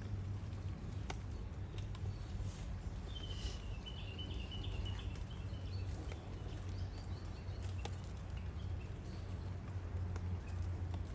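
A bird calls in a short run of chirps about three seconds in, with a fainter call near seven seconds, over a steady low outdoor rumble and a few scattered faint clicks.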